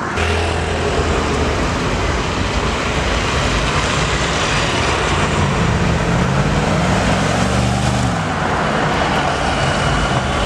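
A motor vehicle's engine running amid steady road noise, its pitch rising and falling between about five and eight seconds in.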